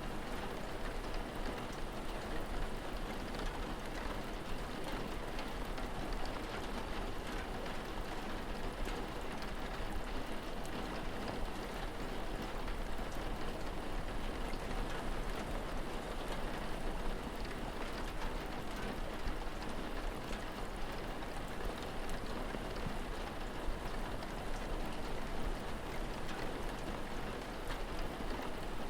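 Steady rain, an even hiss of rainfall with many small drop ticks throughout.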